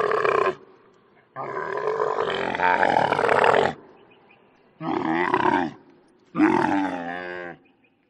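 Camel calling: a call trailing off just after the start, a long call of about two seconds, then two shorter calls about a second and a half apart.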